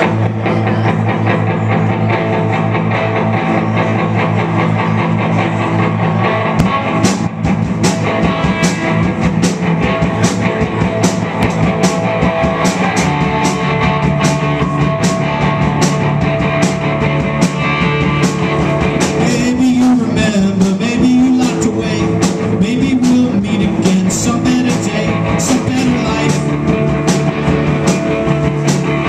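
Rock band playing an instrumental intro: guitar and bass, with the drum kit coming in about seven seconds in and keeping a steady beat.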